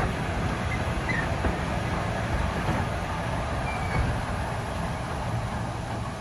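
Passenger carriage rolling along the track, heard from its window: a steady rumble of wheels on rail, with a couple of faint brief squeaks and ticks.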